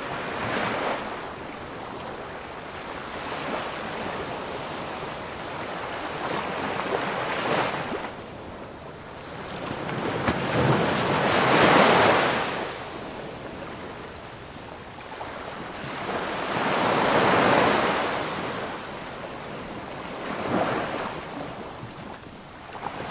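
Sea waves breaking and washing on the shore, the surf swelling and fading every few seconds, loudest about halfway through.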